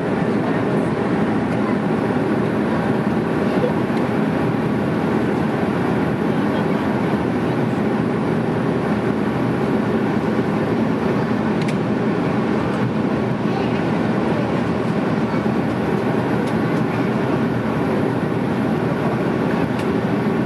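Steady engine and airflow noise inside the cabin of an Airbus A310 airliner in flight, an even rushing drone with no change in pitch or level.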